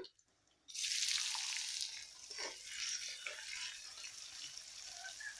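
Chopped onions sizzling in hot oil in a kadai, on top of whole spices just fried in it. The sizzle starts suddenly after a brief silence, is loudest for about a second, then settles to a steadier, softer sizzle.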